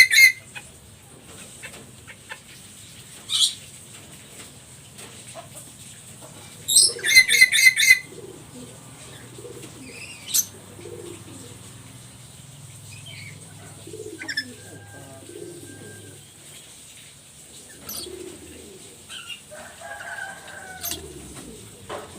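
Black-capped lory calling: harsh screeches, a rapid run of loud squawks about seven seconds in, then softer mumbled chatter and a short whistle.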